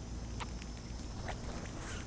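Birds and small animals feeding on scattered seed: a few light, scattered ticks and clicks, with a short high chirp near the end, over a steady low rumble.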